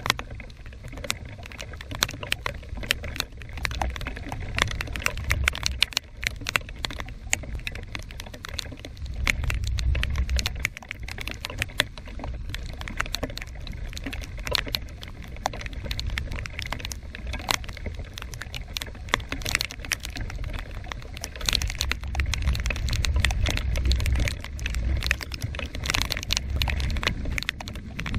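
Heavy thunderstorm rain pattering, with a dense run of drops ticking close to the microphone. Under it a low rumble swells and fades, strongest about a third of the way in and again near the end.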